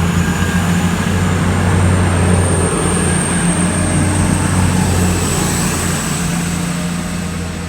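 Class 222 Meridian diesel multiple unit's underfloor diesel engines running with a deep steady hum and rumble as the train pulls out, fading away over the last couple of seconds.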